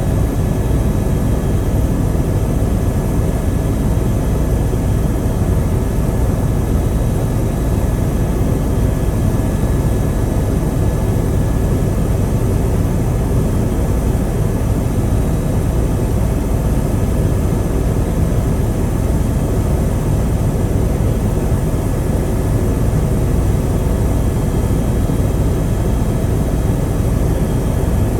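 Helicopter in flight: steady engine and rotor noise, heaviest in the low end, with a few faint steady whines above it.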